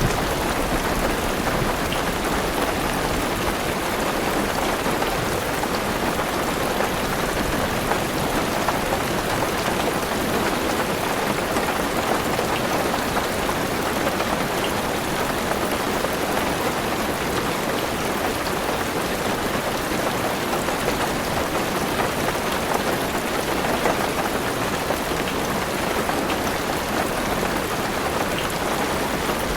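Heavy rain falling steadily on a car's roof and windows, heard from inside the car.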